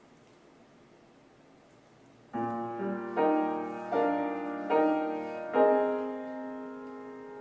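Faint room tone, then about two seconds in a piano enters with slow chords, roughly one a second, each left to ring and fade: the piano introduction to a church choir anthem.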